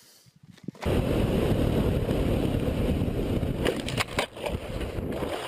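Dirt bike riding: a loud, rough rumble of engine and wind that starts suddenly about a second in, with a few sharp knocks around four seconds in.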